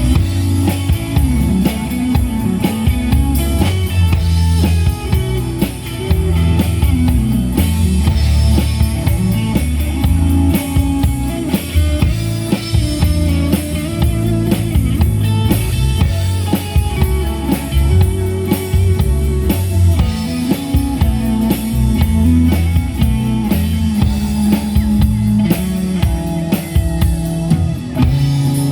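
Rock band playing an instrumental passage live: drum kit with bass drum and rimshots keeping a steady beat under electric guitar and bass.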